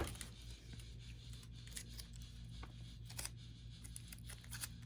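Faint scattered clicks and rustles of a roll of tape being handled, over a steady low hum.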